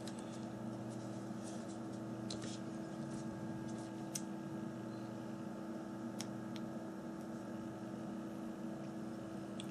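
Steady electrical hum from workshop equipment, with a few faint, sharp clicks of a small tool working the plastic clips inside a phone being taken apart.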